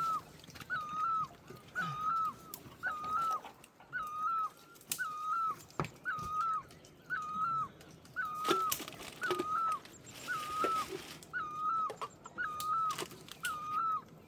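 A bird calling over and over, the same short clear note with a hooked drop at its end repeated evenly about one and a half times a second, with a few sharp knocks in between.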